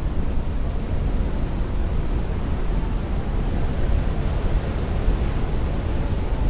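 Heavy rain against a window with strong wind rushing, a dense, steady noise over a deep low rumble; the higher hiss swells a little about four seconds in.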